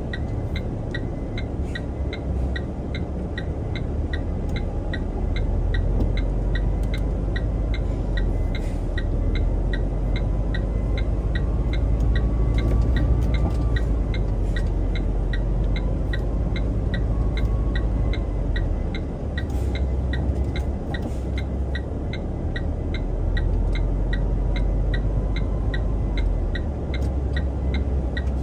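Truck's diesel engine running under load in the cab, its low rumble swelling and easing, with a steady ticking at about two to three a second and a faint whine that rises and falls now and then.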